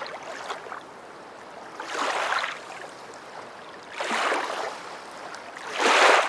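Water washing in repeated surges, a rush of noise about every two seconds, three times, the last near the end the loudest.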